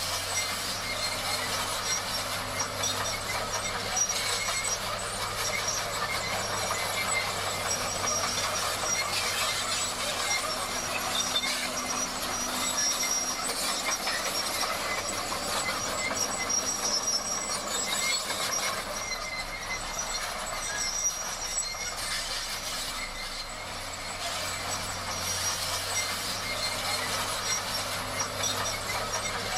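Crawler bulldozer at work, most likely the Komatsu D58: a steady metallic clatter and squeal from its tracks and undercarriage over the engine's low running hum.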